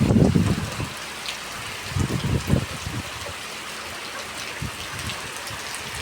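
Heavy storm rain falling as a steady hiss, with gusts of wind buffeting the microphone at the start and again about two seconds in.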